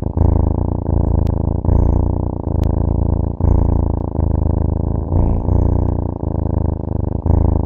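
Domestic cat purring loudly and close up. The low, rapidly pulsing purr breaks briefly and starts again about once a second, with each breath in and out.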